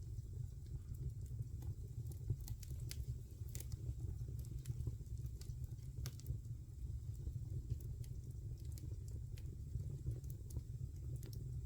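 Wood fire burning in a fireplace: a steady low rumble of the flames with irregular sharp crackles and pops of burning wood.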